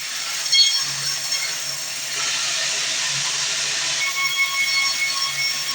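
Sawmill bandsaw running through a log, a steady loud hiss with high whining tones coming in about four seconds in. A brief sharp knock sounds about half a second in.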